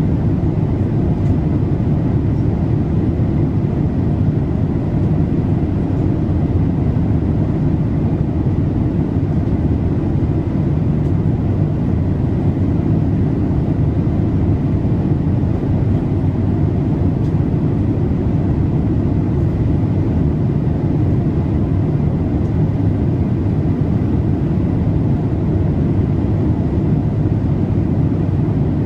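Steady low rumble inside a Boeing 787-8's cabin in flight: engine and airflow noise that stays even throughout.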